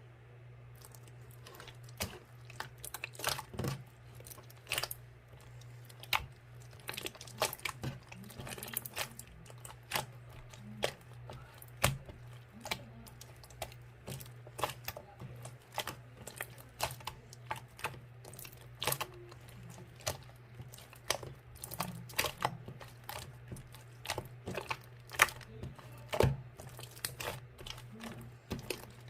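Slime being squished, folded and stretched by hand, making irregular sticky clicks and crackles. A steady low hum runs underneath.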